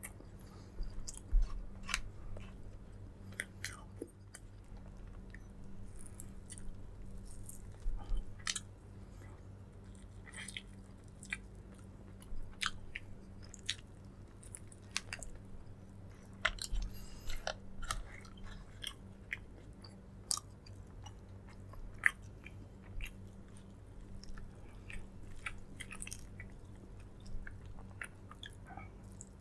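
Close-miked chewing and mouth sounds of a person eating grilled fish, okra and rice: irregular wet smacks and clicks, over a steady low hum.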